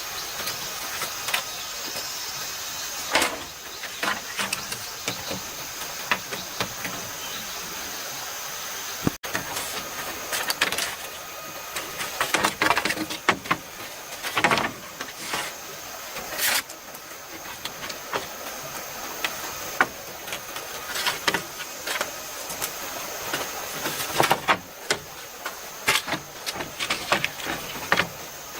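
A stream rushing steadily, with intermittent knocks, taps and scrapes of hand work on bamboo scattered through it. The sound drops out for an instant about nine seconds in.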